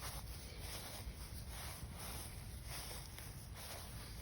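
Faint footsteps of someone walking, about two a second, over a low steady outdoor rumble.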